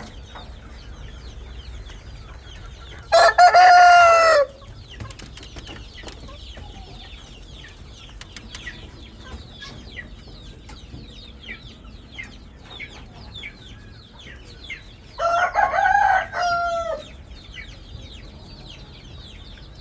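A rooster crows twice, about three seconds in and again about fifteen seconds in, each crow ending on a falling note, with faint short chirping in between.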